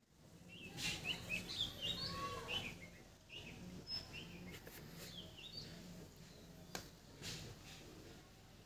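Small birds chirping, many short quick chirps over the first half or so, then sparser. A single sharp click comes near the end.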